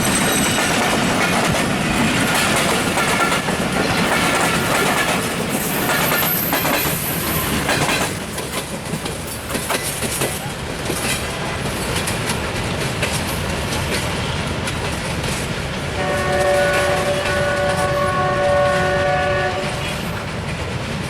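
Passenger train running past on the track, wheels clattering over the rail joints. About 16 s in, a multi-tone locomotive horn sounds for about three seconds.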